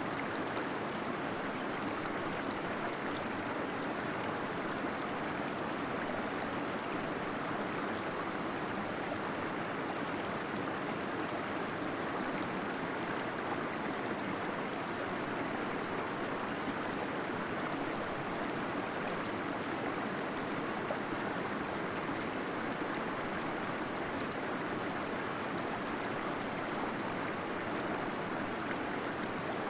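Waterfall splashing with a steady, even rush of falling and gurgling water.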